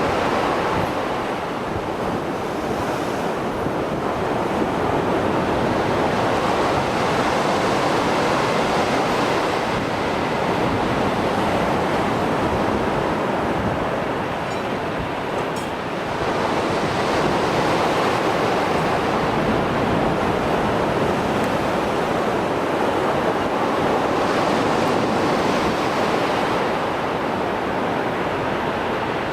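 Mediterranean Sea surf after a storm: waves breaking and washing continuously in a dense rush of water noise that swells and eases slowly, every several seconds.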